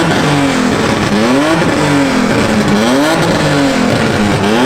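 Car engines being revved repeatedly, the pitch climbing and dropping about once a second, with more than one engine overlapping.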